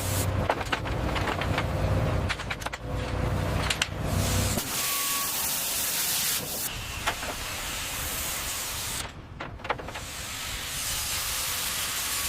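Boat-restoration workshop noise: a low machine hum with scattered clicks and knocks for about the first four and a half seconds, then a steady spraying hiss, dipping briefly about nine seconds in.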